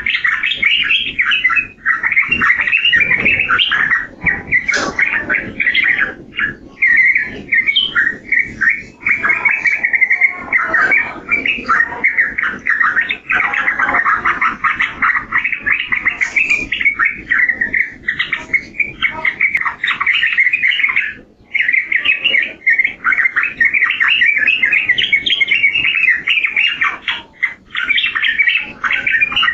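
Yellow-vented bulbul (trucukan) singing a long, rapid run of chattering notes, with only a couple of short breaks about two-thirds of the way through.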